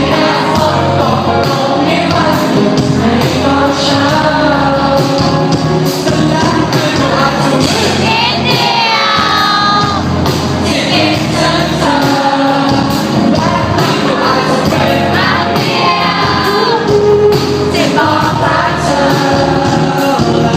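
Live band performing a song: a singer's voice over electric bass and the full band, amplified and loud, with a strong, steady low end.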